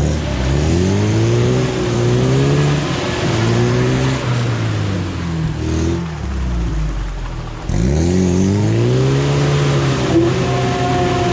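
UAZ off-road vehicle engine revving hard in repeated surges, its pitch rising and falling, while it strains to drag a stuck vehicle out of clay. The engine drops off briefly about seven and a half seconds in, then revs up again.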